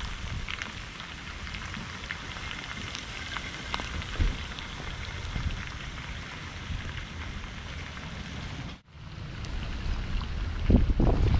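Chicken wings frying in hot oil on a disc cooker: a steady crackling sizzle with scattered small pops. About nine seconds in the sound cuts off, and wind buffets the microphone with a low rumble.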